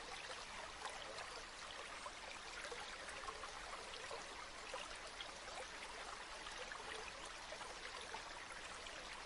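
River water flowing: a faint, steady rush with many small trickles and splashes.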